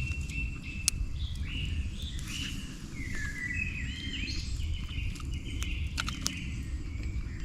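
Forest songbirds singing series of short, repeated notes over a steady low rumble, with a few sharp clicks about a second in and again near six seconds.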